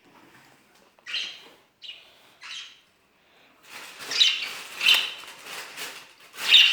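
Pet budgerigars chirping and squawking in short high calls: a few separate calls at first, then a busier run of louder chatter from about halfway through.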